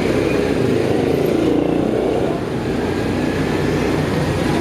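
Motorcycle engine running steadily on the move, its note dipping briefly about halfway through.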